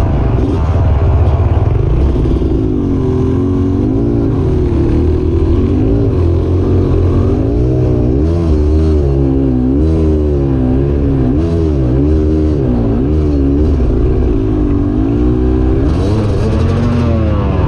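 Dirt bike engine revving up and down over and over under load as it is ridden up a rocky riverbed waterfall.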